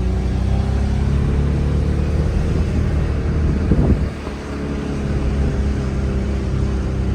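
Ford Taurus V6 engine, run on dish soap in place of motor oil, held at steady high revs under load while the automatic transmission is slow to shift. There is a short knock about four seconds in, then the engine note briefly dips before it steadies again.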